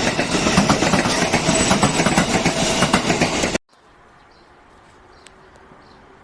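Joban Line train passing close by, its wheels clattering rapidly over the rail joints with a rushing noise. The sound cuts off abruptly about three and a half seconds in, leaving quiet background with a few faint chirps.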